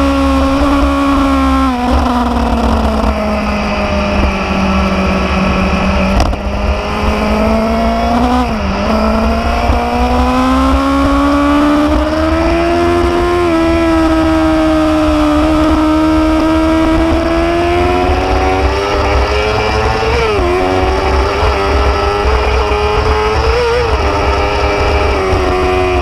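Motorcycle engine running under way, its note slowly falling and rising with the throttle. The pitch dips briefly a few times, near two seconds in, around nine seconds and twice past twenty seconds, and a steady low rumble runs underneath.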